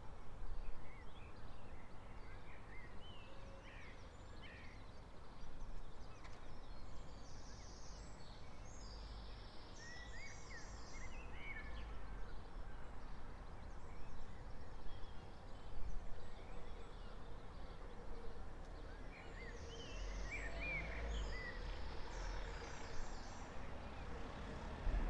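Small songbirds chirping and trilling in short clusters of high notes over a low, steady background rumble of the street before dawn.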